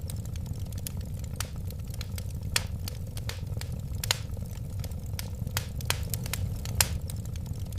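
Wood fire burning, with a steady low rumble under irregular sharp crackles and pops. A few of the pops are noticeably louder than the rest.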